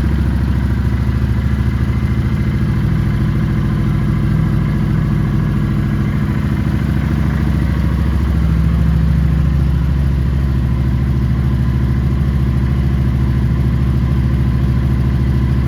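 Kawasaki Vulcan 900 Classic's V-twin engine idling steadily.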